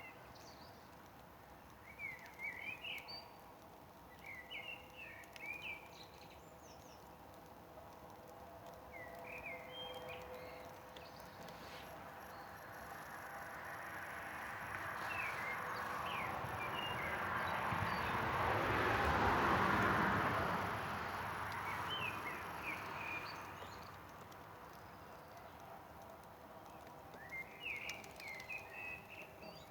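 Small birds chirping in short bursts of quick rising notes, several times over a steady outdoor background. In the middle a broad rushing noise slowly builds to the loudest point and then fades away over about ten seconds.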